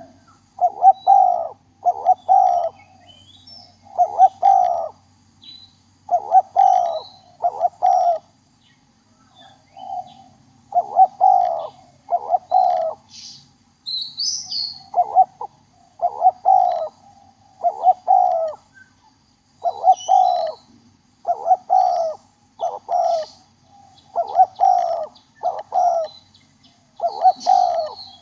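Spotted dove cooing: a phrase of two or three low coos, repeated again and again every couple of seconds. Faint chirps of small birds sound in the background.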